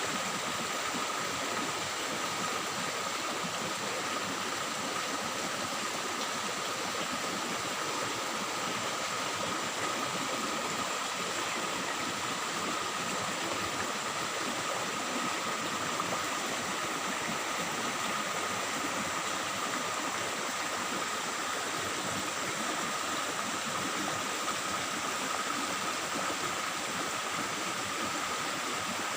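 Shallow river water babbling and trickling in a steady, unbroken rush, with a thin, steady high-pitched tone above it.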